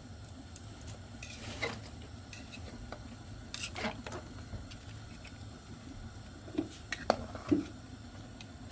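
Scattered light knocks and clinks of kitchen pots and utensils, the sharpest three close together about three-quarters of the way through, over a faint low hum.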